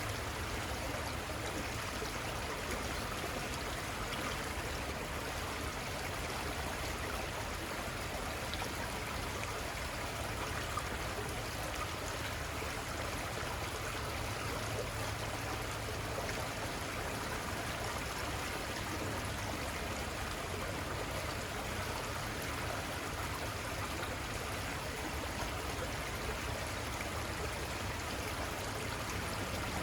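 River water flowing steadily, a constant even rush with no breaks.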